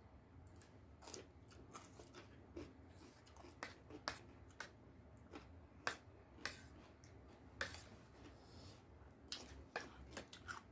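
Faint close-up eating sounds: chewing with irregular sharp mouth clicks and smacks.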